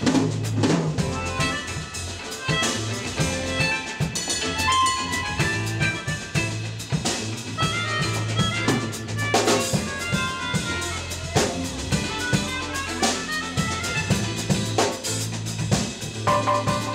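Live jazz band playing an instrumental passage without vocals: drum kit with snare and rimshot hits over a steady electric bass line, with melodic notes on top.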